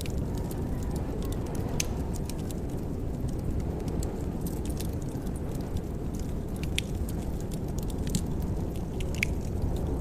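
Wood fire crackling in a fireplace: a steady low rumble of flames with scattered sharp pops and crackles throughout.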